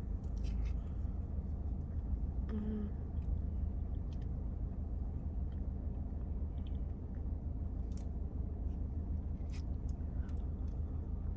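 Quiet eating: a few faint clicks, like a plastic fork against a food container, and soft chewing over a steady low rumble.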